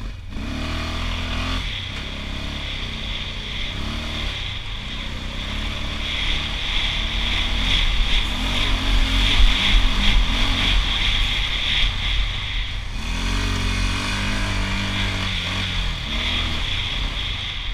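Honda TRX680 ATV's single-cylinder four-stroke engine running under changing throttle, its pitch rising and falling as it accelerates and eases off several times. It is loudest in the middle, with a steady high-pitched whine alongside.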